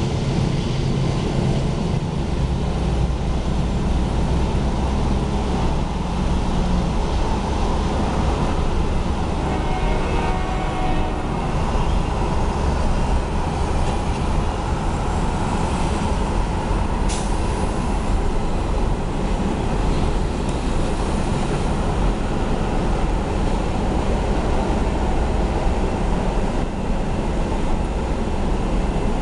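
Double-stack container freight train rolling past, a steady low rumble of the cars on the rails, with a brief sharp sound a little past halfway.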